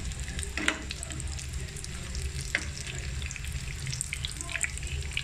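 Breaded potato and chicken kababs shallow-frying in hot oil in a nonstick pan, sizzling and crackling steadily. There are a couple of sharper clicks as a metal slotted spatula turns them.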